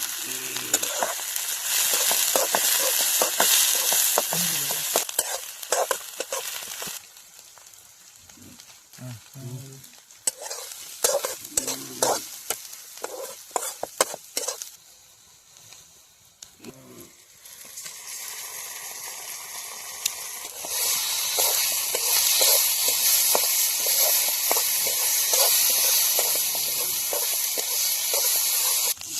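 Pork pieces sizzling and frying in hot oil in a pan while being stirred, with the scrape and knock of the spoon. The sizzle drops away about seven seconds in, leaving scattered knocks, then comes back and grows louder again after about twenty seconds.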